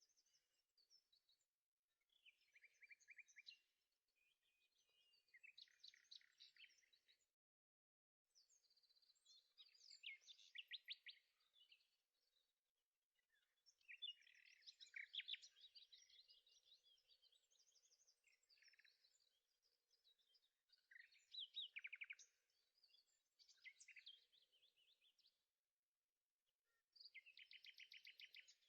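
Faint birdsong: short chirping and trilled phrases repeated every few seconds, with brief pauses between them.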